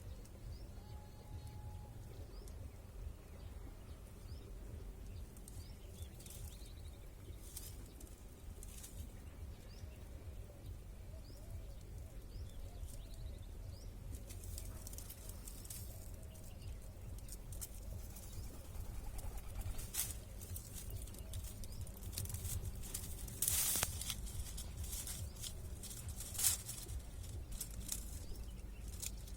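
Birds chirping faintly over a steady low rumble, with a few short rustling bursts in the second half; the loudest comes about two-thirds of the way in.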